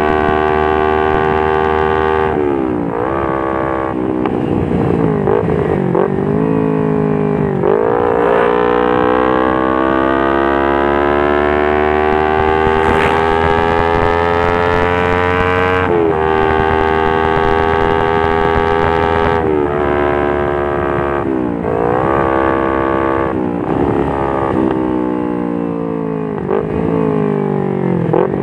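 Kawasaki Ninja 250 FI parallel-twin engine through an R9 H2 titanium exhaust with a Prospeed header, running hard at high revs. The pitch drops about two seconds in and rises and falls several times, then makes a long steady climb that peaks around halfway and holds. After that it falls off, with a few short rises and drops near the end.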